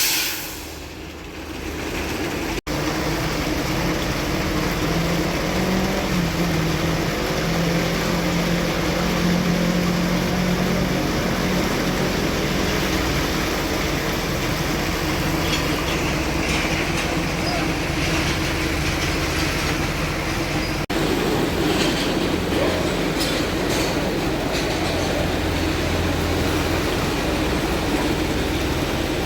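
Heavy diesel truck running with a steady loud rumble and a low hum. The sound drops out for an instant twice.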